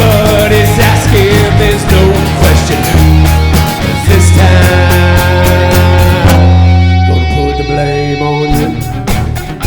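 Live rock band instrumental break: guitars over a strong bass line and a BeatBuddy drum machine beat. About two thirds of the way in, the drums and bass drop away for a moment, leaving held guitar notes, before the full band comes back in near the end.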